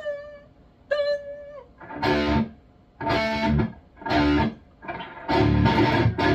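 High-gain distorted electric guitar through a Bogner Uberschall preamp: two sustained single notes, then four chugging chords, the last held for about a second.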